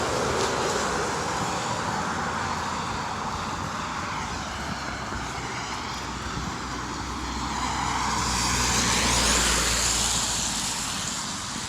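Road traffic: tyre and engine noise of cars passing on a street, one fading away at first and another swelling up and passing about nine seconds in, over a low rumble.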